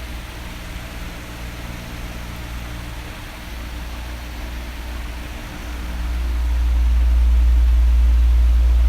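Electric fan running, a steady whooshing rush of air over a low motor hum. About six seconds in it swells louder and stays up to the end, as an oscillating fan does when it sweeps round toward the listener.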